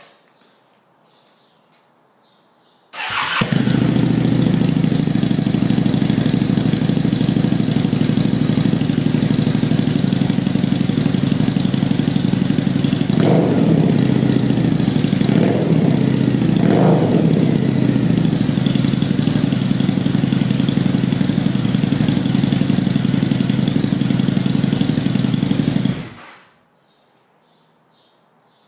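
A 2013 Harley-Davidson V-Rod Muscle's liquid-cooled Revolution V-twin, fitted with Bassani slip-on mufflers, starts about three seconds in and settles into a steady idle. It is revved briefly three times, to about 3500–4000 RPM, then idles on and is switched off near the end.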